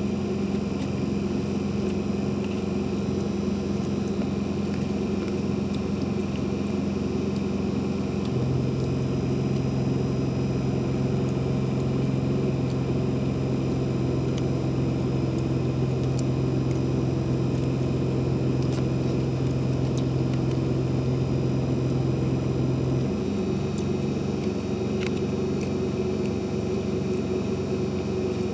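A steady low motor hum. Its pitch shifts to a new note about eight seconds in and shifts back around twenty-three seconds.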